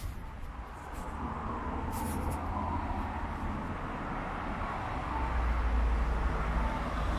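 Subaru WRX S4's boxer engine idling cold through an EXAS EVO Tune aftermarket muffler, a deep low exhaust rumble during morning warm-up. It grows louder about a second in and again about five seconds in.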